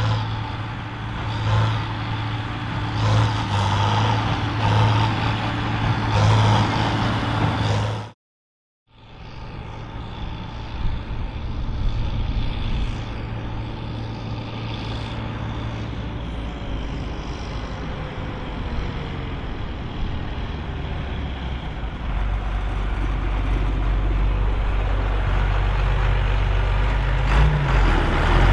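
John Deere 4955 tractor's six-cylinder diesel engine working hard under load, pulling a Krone BigPack large square baler, the tractor and baler running together. The sound cuts out completely for under a second about eight seconds in and comes back a little quieter.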